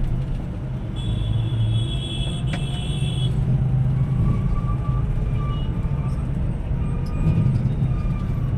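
Steady low rumble of a road vehicle's engine amid traffic. A thin high-pitched tone sounds for about two seconds near the start, and short faint tones come and go later.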